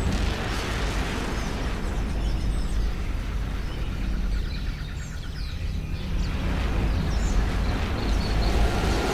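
A low, rolling rumble of thunder over a steady hiss of rain, with a few faint bird chirps in the middle.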